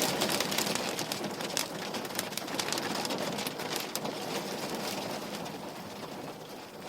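Rain falling on a window pane: a steady patter with many separate drop ticks, easing off a little over the few seconds.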